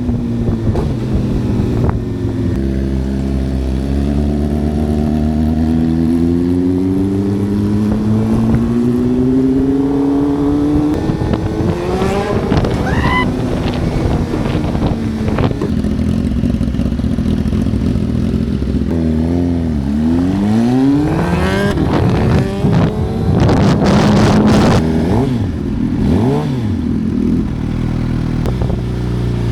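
Suzuki GSX-R 750's inline-four engine under way, its revs climbing steadily for about ten seconds. About two-thirds of the way through the revs drop sharply and sweep quickly back up, then settle at a steady pitch.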